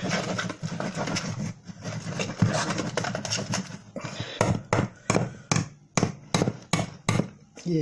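A utensil mixing a spice marinade in a bowl. First comes dense, irregular scraping and stirring. About halfway through it turns to sharp, regular knocks against the bowl, about three a second.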